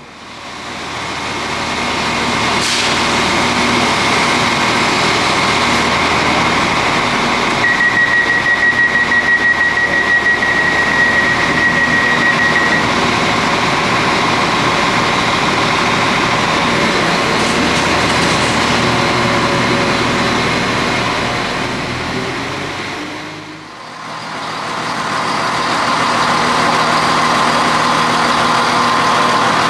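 A train's diesel engine running steadily at a station platform. A high, rapidly pulsing beep sounds for about five seconds, about eight seconds in.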